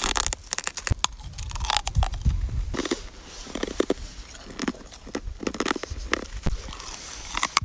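Someone biting into and chewing white ice, with an irregular series of crisp crunches.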